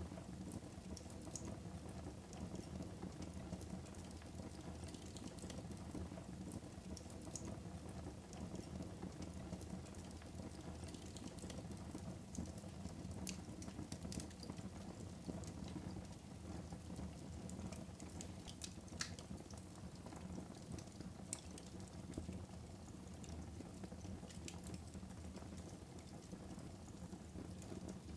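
Fire burning in a fireplace, crackling, with scattered sharp pops over a steady low rumble of the flames.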